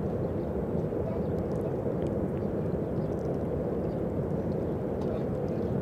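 Steady low rumble of a distant freight train rolling along the far riverbank, heard across open water, with faint scattered ticks over it.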